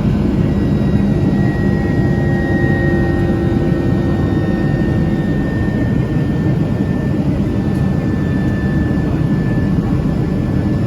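Steady roar of a Boeing 767-300ER's twin jet engines and rushing air heard inside the passenger cabin as the airliner climbs after takeoff. A faint high whine runs through it and sinks slightly in pitch.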